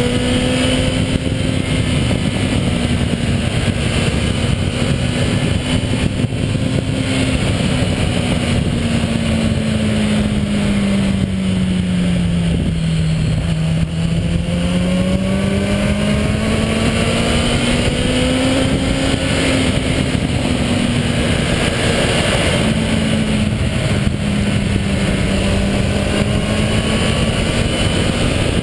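Kawasaki ZX-10R inline-four engine running under way, its note easing down to its lowest about halfway through, then climbing back and holding steady. Wind rushes steadily over the microphone throughout.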